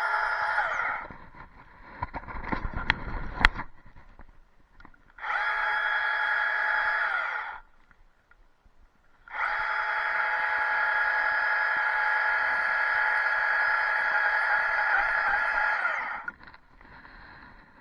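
Chainsaw running at a steady pitch in three spells: a short one at the start, another of a couple of seconds, and a long one of about seven seconds. Each winds down in pitch as it stops, with near quiet between. A few sharp knocks and clatter come about two to three seconds in.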